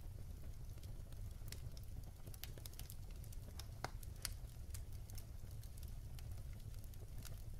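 Wood fire burning in a fireplace: the logs crackle and pop irregularly over a low, steady rumble.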